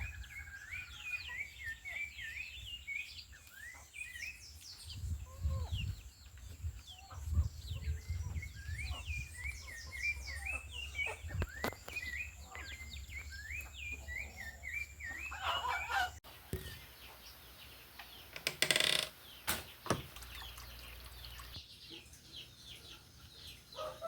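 A songbird singing, a long run of short chirping notes repeated over and over, with chickens clucking in the background. About two-thirds of the way through the birdsong cuts off abruptly, followed by a couple of sudden knocks.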